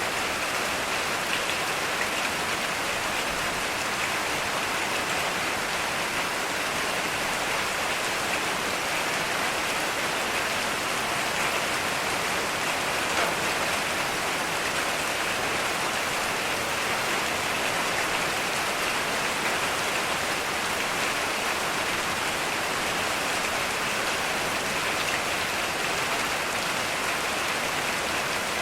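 Heavy rain falling steadily, a dense even hiss of drops hitting surfaces with no breaks.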